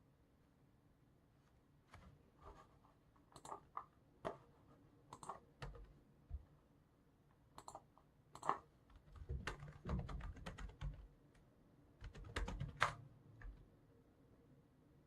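Typing on a computer keyboard: irregular runs of keystrokes starting about two seconds in, with the quickest bursts in the second half.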